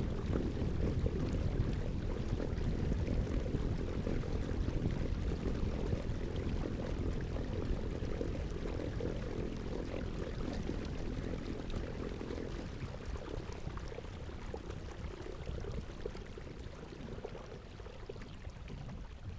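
Steady rushing and pouring of water around a kayak, mixed with low rumble, easing off after about twelve seconds.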